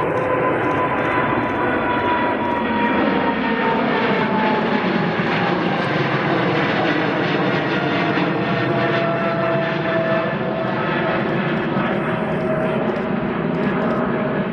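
Boeing 777's twin GE90 jet engines at takeoff thrust, a steady loud roar whose whining tones slowly fall in pitch as the aircraft passes and climbs away.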